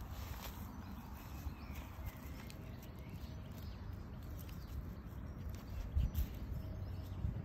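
Outdoor ambience: wind buffeting the microphone in an uneven low rumble, with a few stronger gusts about six seconds in, and faint bird chirps.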